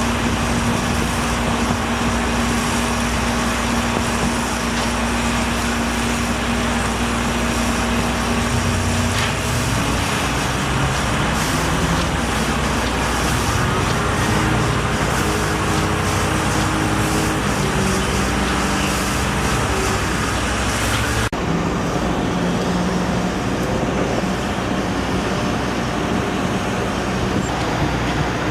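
Heavy engines running over a steady bed of road-traffic noise, the engine tones shifting in pitch several times. The sound changes abruptly about three-quarters of the way through.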